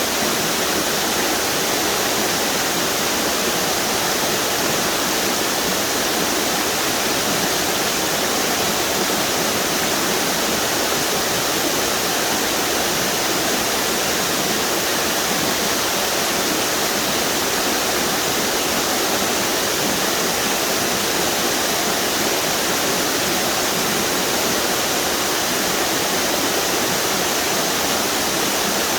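River water pouring over a string of small waterfalls, a steady, even rush with no let-up.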